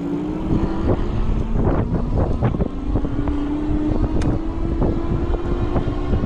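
Electric bike motor whining steadily and rising slowly in pitch as the bike picks up speed, over tyre rumble and wind on the microphone, with occasional small rattles and knocks.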